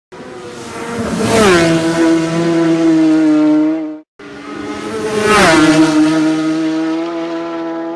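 A racing motorcycle passing at high speed, twice: each time the engine note drops sharply in pitch as it goes by, then holds a steady, fading note. There is a sudden cut between the two passes.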